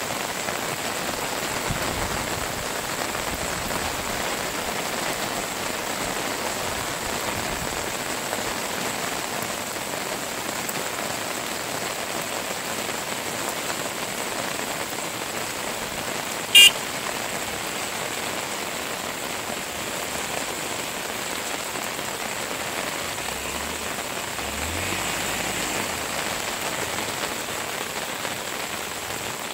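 Steady rain falling, an even hiss, with a single sharp click about halfway through.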